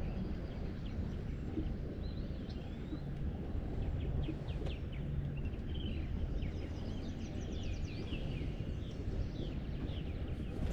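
Birds calling with quick chirps and short rising and falling whistles, most of them through the middle stretch, over a steady low rumble of wind on the microphone.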